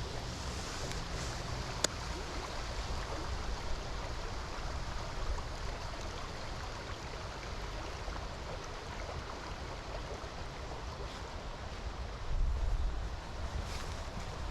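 Steady rush of flowing river water and falling rain. One sharp click about two seconds in, and a low rumble of wind on the microphone near the end.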